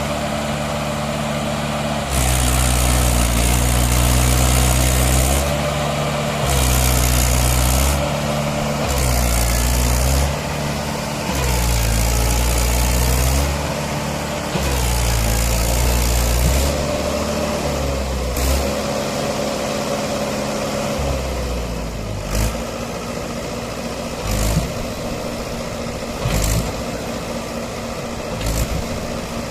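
Mahindra 575 tractor's diesel engine running, its sound swelling and easing every second or two. From about two-thirds of the way in it runs quieter, with a sharp knock about every two seconds.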